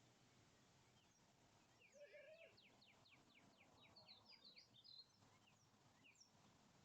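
Faint birdsong: a quick run of about a dozen down-slurred chirps from about two to five seconds in, with a few scattered single chirps around it.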